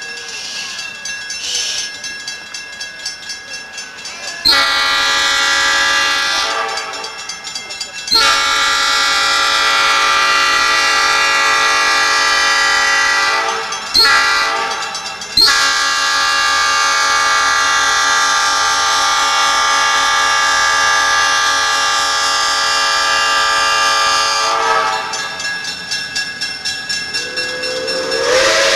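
A locomotive blowing its horn or whistle in the grade-crossing pattern: long, long, short, long, the last blast held for about nine seconds, the signal for approaching a road crossing. Near the end a new chime-like blast starts, rising briefly in pitch as it opens.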